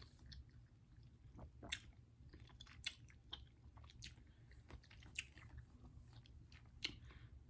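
Faint, close-up chewing with short mouth clicks and smacks, roughly one a second.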